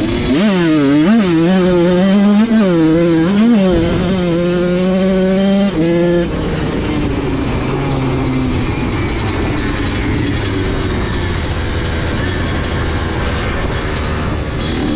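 Dirt bike engine revving up and down several times, held at high revs for a couple of seconds, then dropping at about six seconds to a lower, steady running.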